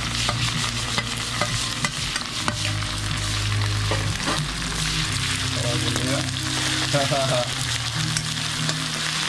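Ginger-garlic paste sizzling in hot oil in an aluminium kadai, with a steel spoon scraping and clicking against the pan as the paste is added and stirred.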